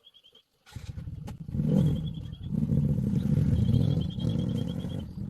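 A small engine running, cutting in abruptly under a second in with a rapid pulsing beat. A high, fast chirping trill sounds over it now and then.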